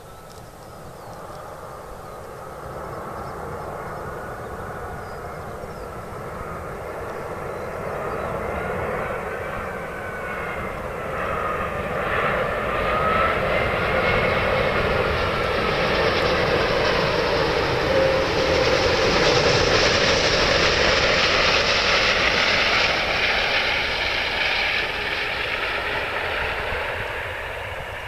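Jet engines of a British Airways Airbus A380 passing by. The roar builds slowly, peaks about two-thirds of the way through with whining tones sliding up and down, then fades.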